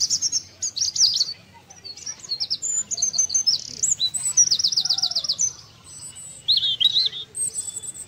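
Several small birds chirping and trilling in quick high notes, with a fast run of repeated chirps about halfway through.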